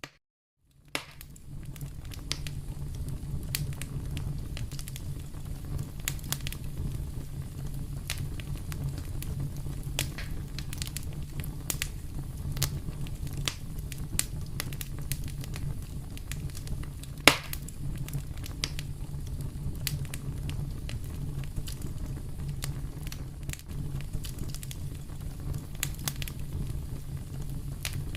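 Wood fire crackling in a fireplace: a steady low rumble of flame with scattered sharp pops and crackles, one pop much louder about two-thirds of the way through. The sound starts after about a second of silence.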